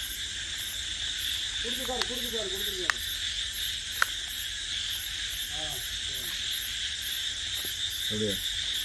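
Night chorus of crickets and other insects: a steady high trill with a higher-pitched call pulsing about two to three times a second over it, with faint distant voices and a few sharp ticks.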